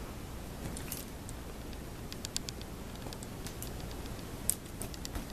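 Faint, scattered small clicks and light rustling over a steady low room hum.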